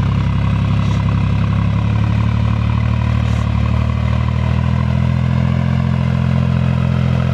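John Deere farm tractor's diesel engine running steadily and loud, with a slight shift in its note about halfway through.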